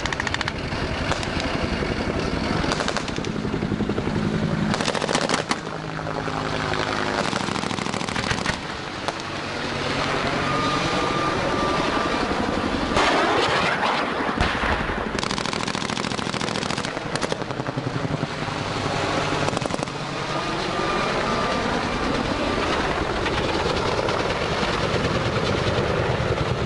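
Automatic gunfire over running military vehicle engines.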